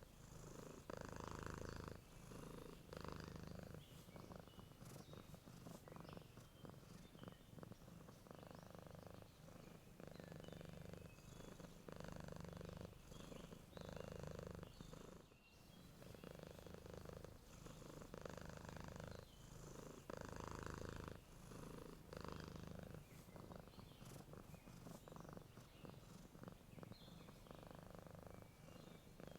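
Domestic cat purring steadily and softly, swelling and easing with each breath roughly every two seconds, with faint bird chirps in the background.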